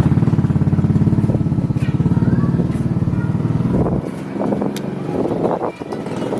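A motor running steadily with a fast, even pulse, cutting off abruptly about four seconds in; a few faint knocks and light noises follow.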